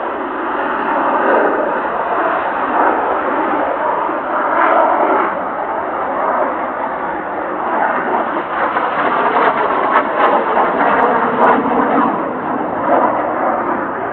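Jet noise from Blue Impulse Kawasaki T-4 aircraft flying over: a loud, steady rushing that swells and eases, with a few short crackles about ten seconds in.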